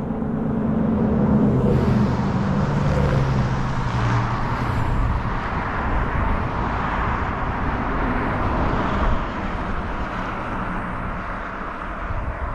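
A motor vehicle passing on the road, its engine note falling in pitch as it goes by, followed by several seconds of steady road noise.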